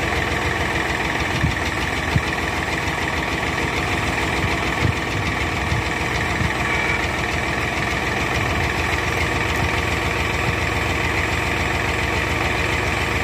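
Engine of a heavy vehicle idling steadily, with a few light knocks over the drone.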